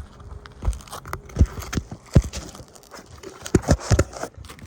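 Footsteps on an asphalt shingle roof: about eight irregular heavy thumps with gritty scuffs between them.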